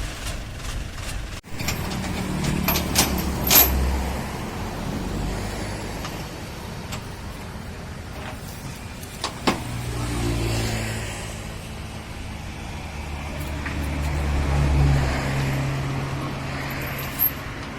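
Combine harvester's engine running, its pitch and level rising and falling as it is driven, with several sharp metallic knocks, the loudest a few seconds in and another about halfway through.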